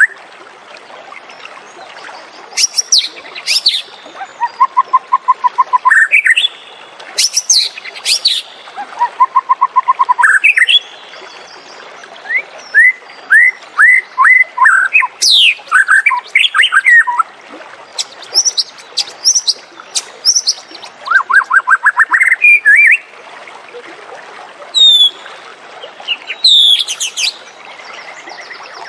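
White-rumped shama singing: varied phrases of fast whistles and chattering notes, each a second or two long with short pauses between, including two runs of evenly repeated notes.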